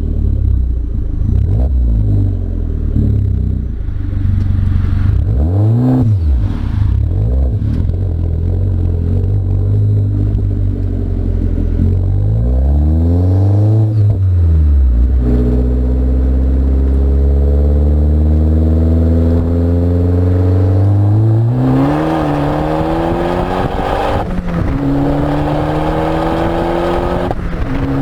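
Abarth 500's turbocharged 1.4-litre four-cylinder through a Milltek exhaust: idling, blipped twice with the revs rising and falling, then held at higher revs that climb steadily.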